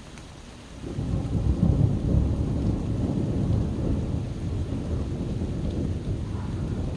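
Steady rain with a long, low rumble of thunder that starts suddenly about a second in, is loudest shortly after, and slowly eases off.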